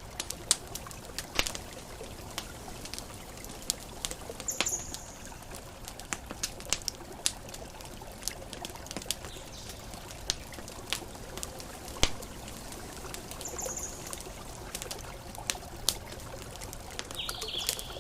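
Campfire crackling: irregular sharp pops and snaps over a steady hiss, with two brief high chirps, one near a quarter of the way in and one about three quarters in.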